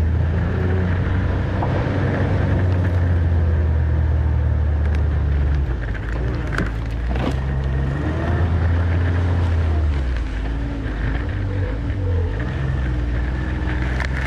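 Snowmobile engine running steadily while riding, a low drone whose pitch drops about six seconds in and again about ten seconds in as the revs change.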